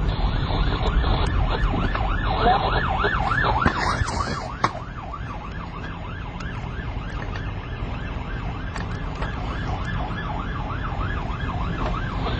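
Police car siren on a fast yelp, rising and falling about three times a second, over a low vehicle rumble. There is a single knock about four and a half seconds in.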